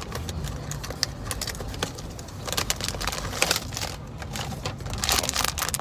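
Packaging being opened by hand: irregular crinkling and clicking, getting busier about halfway through.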